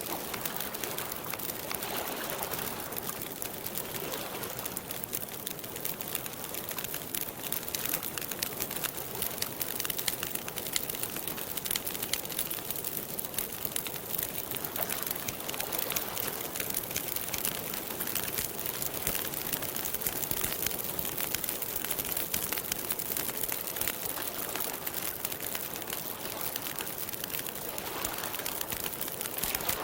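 Wood campfire crackling: a steady stream of small pops and snaps.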